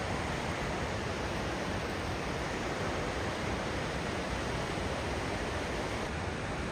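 Steady rush of a waterfall and fast-flowing river water, an even unbroken noise.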